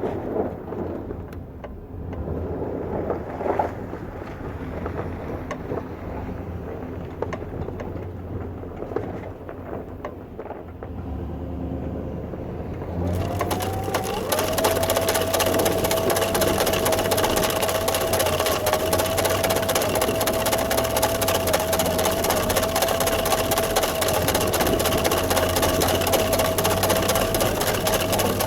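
Engine of a snow-removal machine running low, then about halfway through it revs up into a steady high whine with a loud hiss over it.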